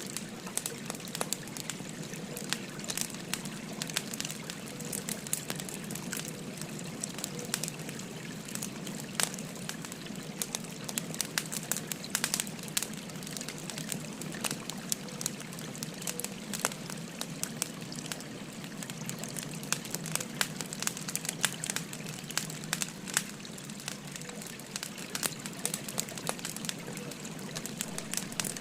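Burning firewood crackling, with frequent sharp pops and snaps over the steady babble of a flowing stream.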